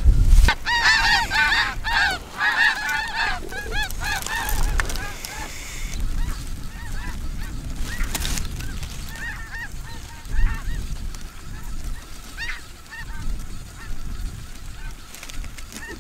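Snow geese calling: a dense chorus of high, barking honks, loudest in the first five seconds, then thinning to scattered single calls.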